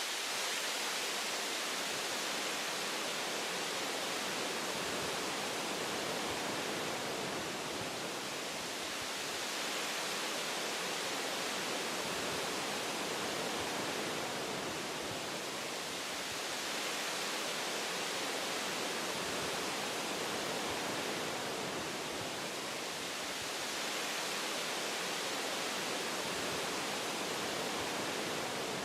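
Wind blowing through forest tree branches: a steady, even rush that swells and eases gently every several seconds.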